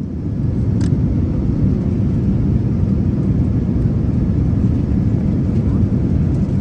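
Steady low rumble of a Boeing 787-9's cabin in flight, engine and airflow noise heard from a window seat, with one sharp click about a second in.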